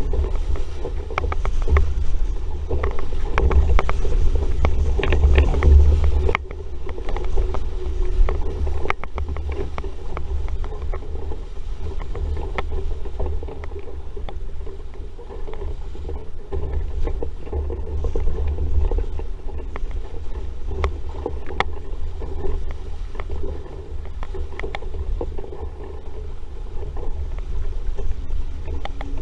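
RS Vareo sailing dinghy under way in a breeze: wind buffeting the microphone and water rushing past the hull, with scattered clicks and knocks from the boat's fittings. It eases a little about six seconds in.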